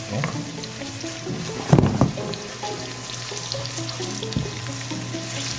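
Green onion and dried red chillies sizzling in hot oil in a pan as they are stirred with a wooden spoon, under background music. A brief louder thump comes just under two seconds in.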